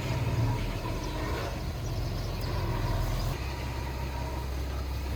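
Heavy diesel engine of earthmoving machinery running low and steady, its note shifting about three and a half seconds in.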